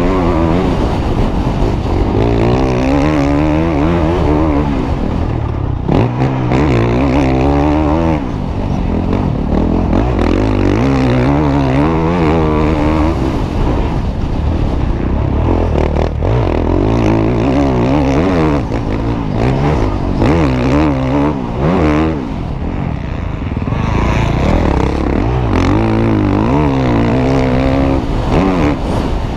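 Motocross bike engine revving hard, its pitch climbing and falling every few seconds through the gears, with brief drops where the throttle is shut off.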